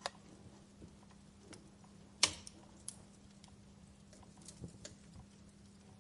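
Log fire crackling: a few small snaps and one sharp, loud pop a little over two seconds in, over a faint steady low hum.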